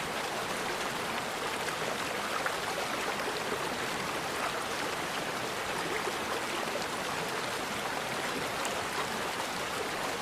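Forest river water flowing steadily, an even rushing with no birdsong.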